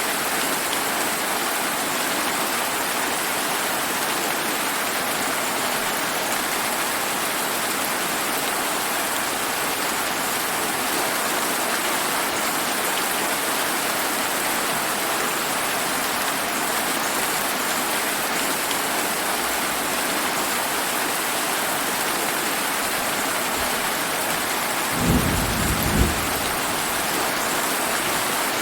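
Steady rain hissing down. Near the end a short, low clap of thunder comes in two quick jolts about a second apart.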